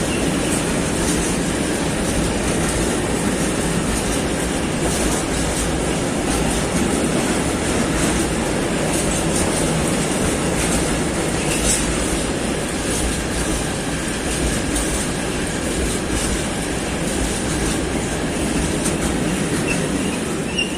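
Freight train of rail tank wagons rolling past, a steady loud rumble of wheels on track with clickety-clack over rail joints and a few brief faint wheel squeals.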